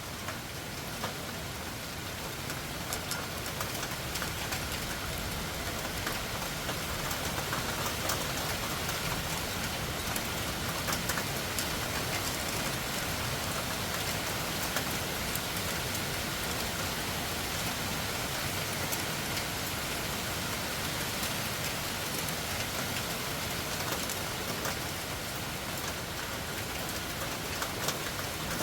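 Heavy rain falling steadily at night, a constant hiss with many separate drops pattering on surfaces.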